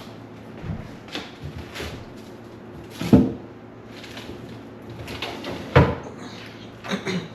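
Clunks and knocks of things being handled and set down, with two louder knocks about three and six seconds in and smaller ones between.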